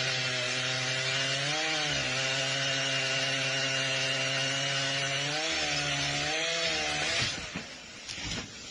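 A motor running steadily with a buzzing note, its pitch wavering twice, then cutting out about seven seconds in.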